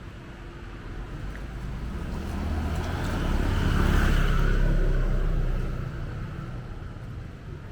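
A motor vehicle driving past close by, its engine rumble and tyre noise swelling to a peak about four seconds in and then fading away.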